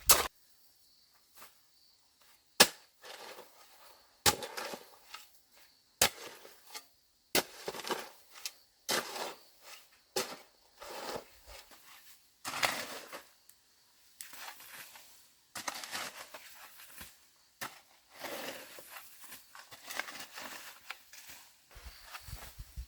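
Irregular sharp knocks and clatters, about one every second or two, with quieter rustling between them.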